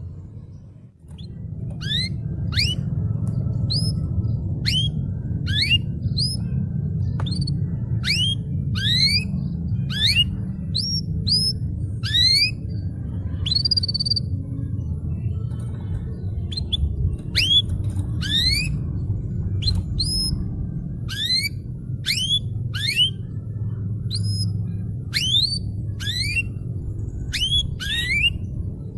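Canary singing a string of quick rising whistled chirps, about one or two a second, over a steady low rumble.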